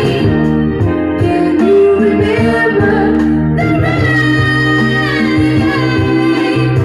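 Song recording: a high singing voice holds long, wavering notes over guitar and bass.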